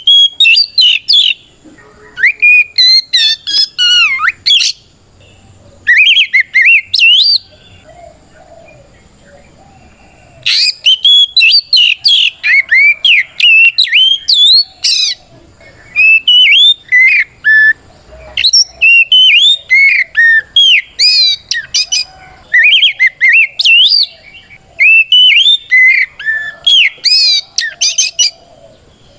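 Oriental magpie-robin (kacer) singing loud, fast phrases of rising and falling whistled notes: a few short bursts with pauses, then nearly unbroken song from about ten seconds in. It is the full challenge song a male uses to call out a rival.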